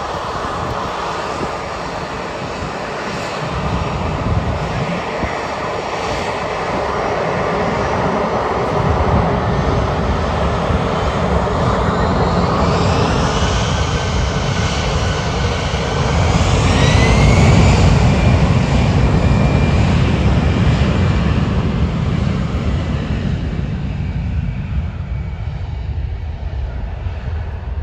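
Jet airliner passing close by, its engine noise swelling to a peak about two-thirds of the way through and then fading. A high engine whine glides in pitch as it goes by.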